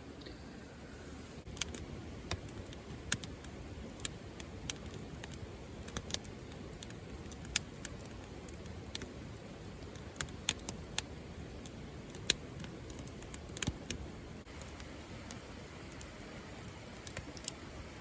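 Wood fire crackling: irregular sharp pops and snaps, a few a second, over a steady low hiss.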